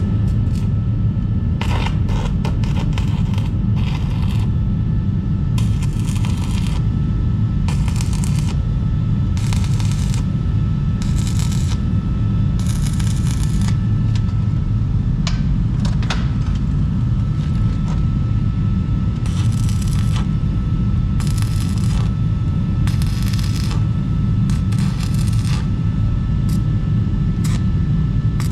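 Repeated scraping strokes on steel, each about half a second to a second long, coming every second or two over a steady low rumble.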